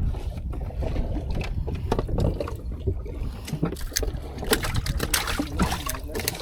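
Seawater sloshing and splashing against the hull of a small fishing boat, over a steady low rumble, with scattered knocks and clicks.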